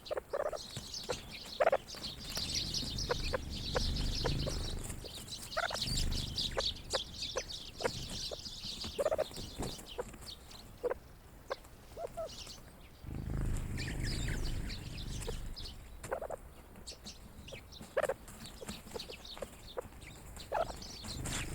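Grey partridges giving short, soft clucking calls every few seconds, over many small sharp clicks and a high twittering in the first half.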